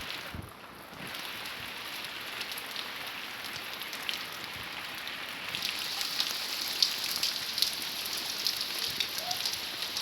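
Heavy rain falling steadily, with the ticks of separate drops hitting a hard surface; it eases briefly about half a second in.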